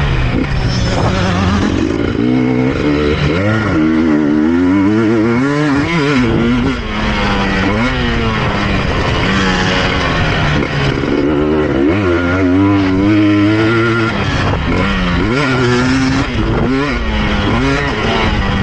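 KTM EXC 250 TPI two-stroke engine revving hard and easing off again and again under throttle, its pitch rising and falling every second or two, heard from the rider's helmet chin guard.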